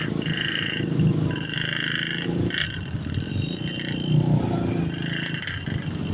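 Congested road traffic crawling at a level crossing: vehicle engines running at low speed in a continuous rumble, with passing bursts of engine and tyre noise.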